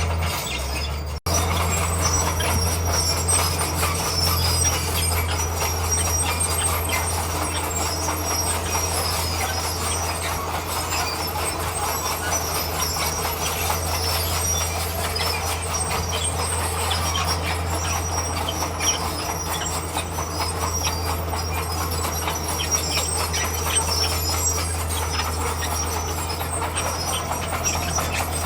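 Crawler bulldozer working: its diesel engine drones steadily under a continuous clatter of steel tracks and pushed stone. The sound breaks off for an instant about a second in.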